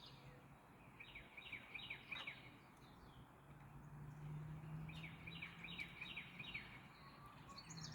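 Faint bird chirping: two runs of quick, high, falling chirps, one about a second in and one about five seconds in, over a low steady hum that starts about halfway through.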